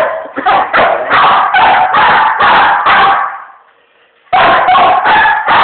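Angry dog barking loudly: a rapid run of about eight barks, a pause of about a second, then another quick run of barks.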